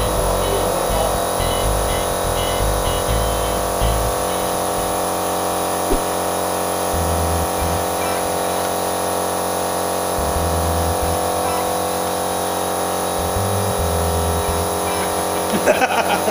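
Steady electrical hum made up of several fixed tones, with one brief knock about six seconds in and a short clatter of sharp sounds near the end.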